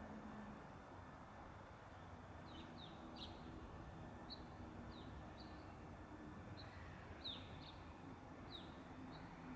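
Faint short bird chirps, about a dozen, each high and falling quickly in pitch, starting about two seconds in, over steady low background noise.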